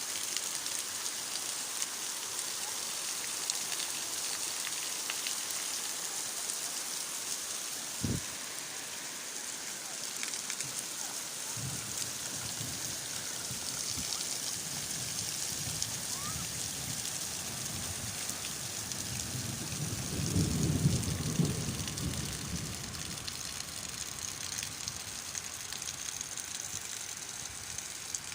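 Steady rain, an even hiss of many drops falling on surfaces. There is a single low thump about eight seconds in, and a low rumble swells around two-thirds of the way through, the loudest moment.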